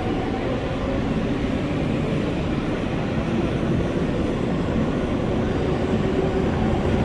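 R143 subway train running between stations, heard from inside the car: a steady rumble of wheels and running gear with a faint hum on top.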